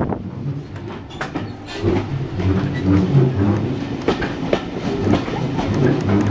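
Passenger train running along the track, heard from inside the carriage: a steady low rumble with irregular sharp clicks and clacks of the wheels over the rails.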